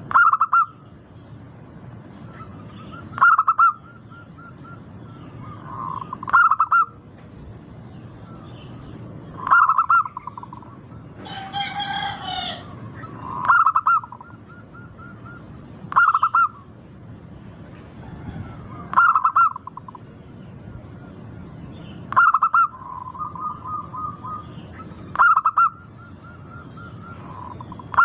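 Zebra dove (perkutut) cooing, a short clear phrase repeated about every three seconds, some phrases ending in a quick trill of notes. A longer, wavering call cuts in once near the middle.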